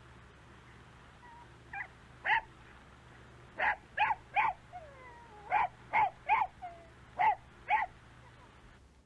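Dog yipping: about ten short, high yips. Most come in quick groups of two or three from about two seconds in, with a faint falling whine between them near the middle.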